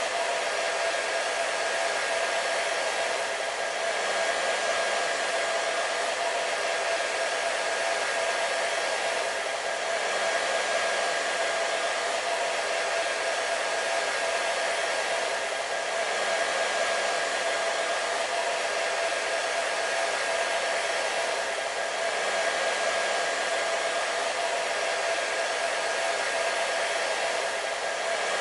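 Hair dryer running continuously: a steady rush of air with a constant motor whine, no change in speed or level.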